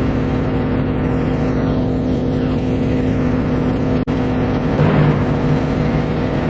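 Steady low drone of a general cargo ship's engine running, with a brief dropout about four seconds in.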